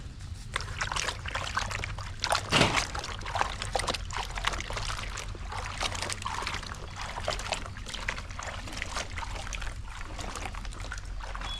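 Water splashing and sloshing in irregular bursts, loudest about two and a half seconds in.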